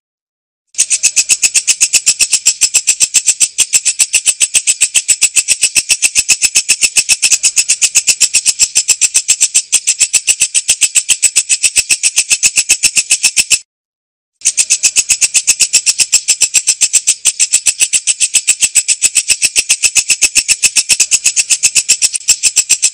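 Walang kecek, an Indonesian katydid, calling in a loud, clear, fast and even train of high-pitched ticks, about five a second. The call breaks off briefly near the start and again about halfway through.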